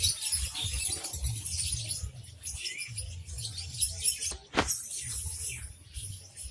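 Many small caged birds chirping and squeaking at a high pitch, with a low rumble underneath and a sharp knock about four and a half seconds in.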